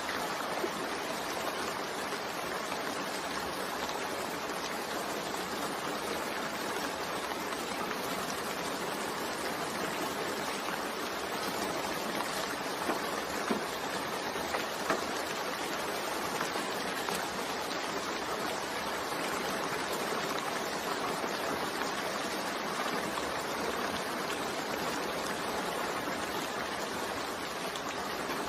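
Steady rain falling, an even hiss with a few sharper drop hits about halfway through.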